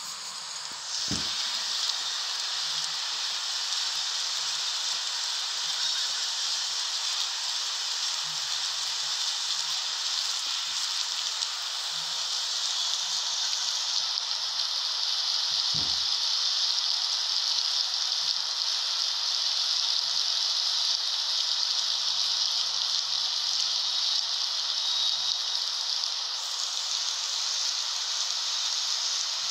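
Heavy rain pouring down in a steady hiss, with two dull low bumps, one about a second in and one around sixteen seconds in.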